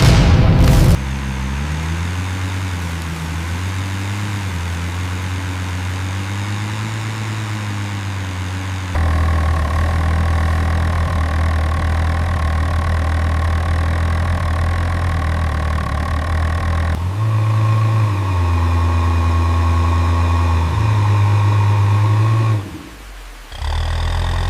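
Tractor engine running at idle with small rises and falls in speed. The sound changes abruptly a few times and drops away briefly near the end.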